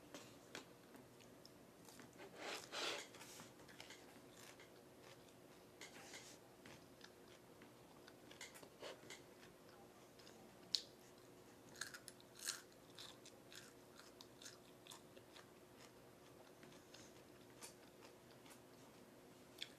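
A person eating cucumber and roti at close range: quiet chewing with irregular crunchy bites and mouth clicks. The sharpest, loudest bite comes about eleven seconds in.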